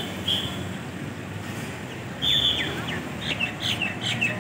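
A songbird singing: clear, steady whistled notes, then a quick run of short chirps that each drop in pitch, over a low hum of street traffic.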